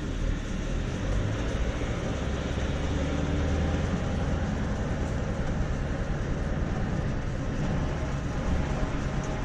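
Lorry engine running steadily under heavy load as it pulls a trailer carrying a tractor, a continuous low drone that the driver finds weak and struggling.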